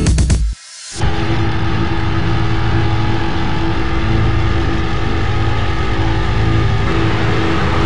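2012 Jaguar XKR-S's supercharged 5.0-litre V8 running at steady revs as the car cruises, its engine note holding one pitch throughout. It comes in about a second in, right after music cuts off.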